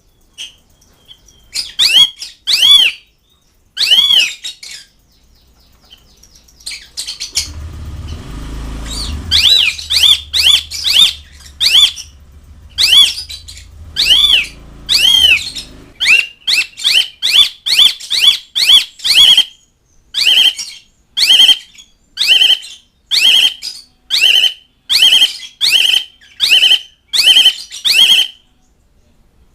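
Asian pied starling (jalak suren) calling: a long run of short, loud, arched whistled notes, repeated about one to two a second. A low rumble sits under the calls in the middle stretch.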